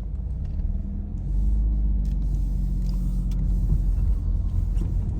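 Mazda RX-7 FD's twin-turbo 13B rotary engine idling steadily just under 1,000 rpm after a hot restart, a healthy warm idle. The low rumble gets louder about a second in.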